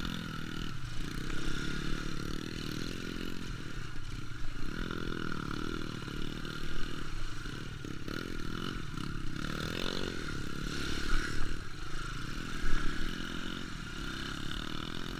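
Trail motorcycle engine running, its note rising and falling as the throttle is opened and closed, with a few louder revs in the second half.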